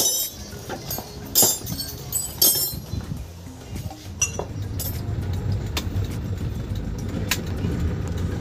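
A few sharp metal clinks, then from about four and a half seconds in the Isuzu Crosswind's engine running steadily.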